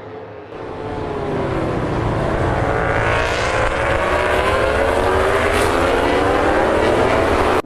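Racing motorcycle engines at high revs, growing louder from about half a second in, their pitch sweeping up and down; the sound cuts off abruptly at the end.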